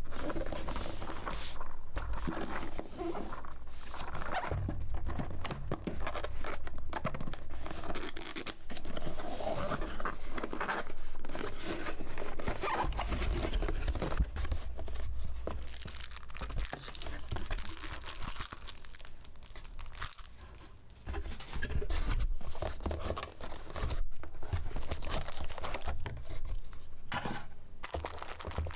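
Packaging being handled and unwrapped: irregular crinkling and tearing of paper and plastic, with soft bumps from the box.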